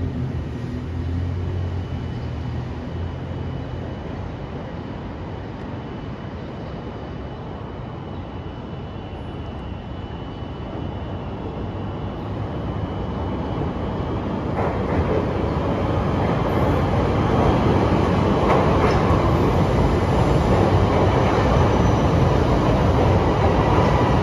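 Chicago 'L' rapid-transit train on elevated track, approaching and pulling in alongside the platform, its wheel-and-track rumble growing steadily louder from about halfway through and loudest near the end.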